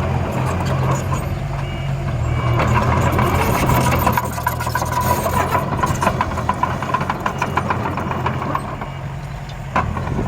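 Heavy-machinery engine running steadily under a continuous low hum, with repeated rattling and clanking from about two and a half seconds in.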